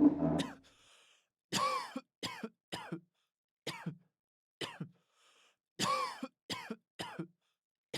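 A person coughing and clearing their throat repeatedly, about eight short coughs spaced irregularly, added as test-room background noise. A steady pitched tone fades out in the first half second.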